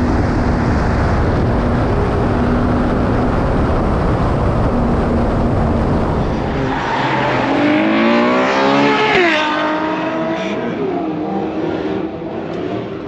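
A car engine at high power: several seconds of loud, dense roar, then the engine note climbs and falls, dropping sharply about nine seconds in as the revs come down or the car goes by.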